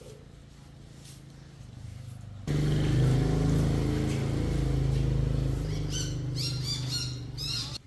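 A motor vehicle running with a steady low hum, starting abruptly about two and a half seconds in and cutting off sharply near the end. Short high chirps come in over it in the last two seconds.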